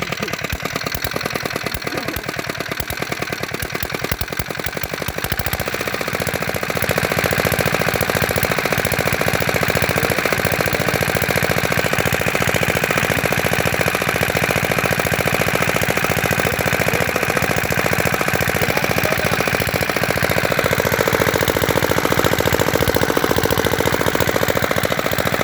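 Comet 5 hp single-cylinder diesel engine running with a fast, even knocking beat. It gets louder about six seconds in, then runs steadily.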